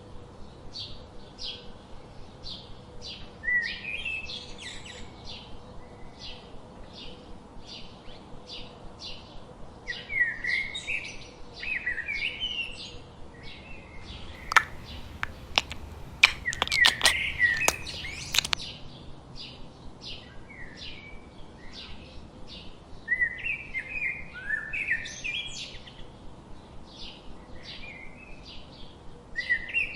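Small birds chirping: short, high chirps repeated about twice a second, broken by several warbling phrases. About halfway through, a quick cluster of sharp clicks or taps is the loudest sound.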